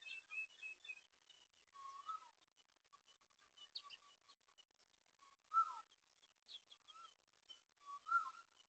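Birds calling: short whistled calls that bend in pitch, repeated every second or two, loudest about five and a half seconds in and again near the end, with a quick run of higher chirps at the start and single higher chirps between.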